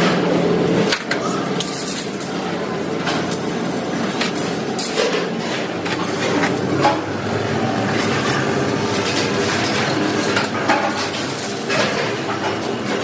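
Workshop clatter: repeated metal knocks and clinks over a steady machine noise.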